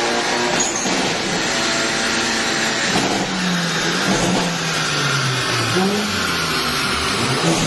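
Hyundai Elantra N's ECU-tuned 2.0-litre turbocharged four-cylinder engine, holding a steady note at first, then from about three seconds in revving up and down again and again.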